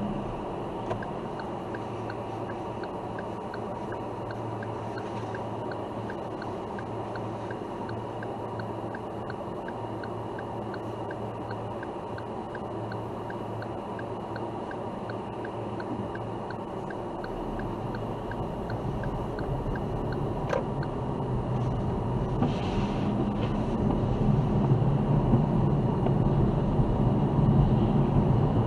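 Car interior driving sound: steady engine and road noise, with a turn-signal indicator ticking about twice a second. The ticking stops about two-thirds of the way through, and the engine and tyre noise then grows louder as the car picks up speed.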